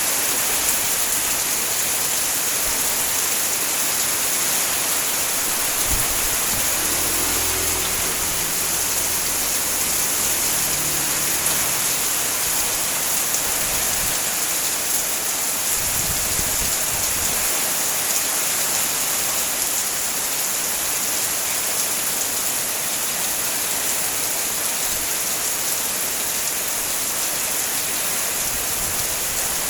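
Heavy rain pouring down in a steady, dense hiss. A low rumble comes in under it about six seconds in, lasts several seconds, and returns briefly around sixteen seconds.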